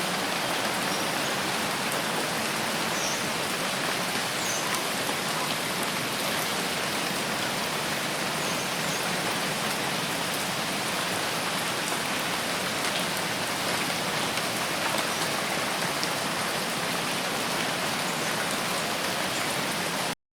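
Steady rain falling, an even hiss of many drops with no distinct events, which cuts off suddenly near the end.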